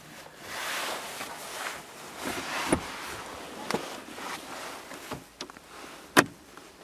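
Handling noise in a car's rear seat area: rustling with a few light clicks and knocks, and a sharper click near the end.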